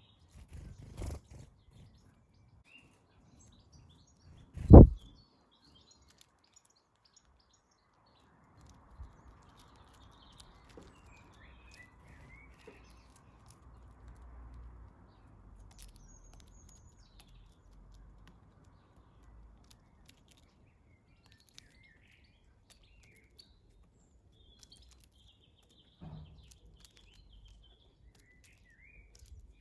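Garden birds chirping on and off, short faint calls scattered through. About five seconds in there is a single loud, brief thump, and a faint low rumble runs through the middle.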